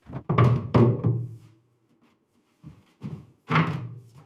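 Heavy, dull thuds at uneven intervals: three loud ones close together at the start, two softer ones a little before three seconds in, and another loud one near the end, each with a low boom that rings on briefly.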